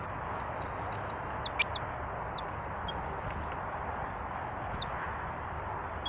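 Small birds giving short, high chirps and ticks, scattered and irregular, over a steady rushing sound of flowing river water.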